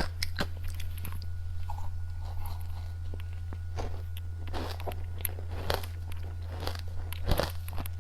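Close-miked biting and chewing of crunchy Japanese candy: a string of sharp, crisp crunches that come thicker from about four seconds in, over a steady low hum.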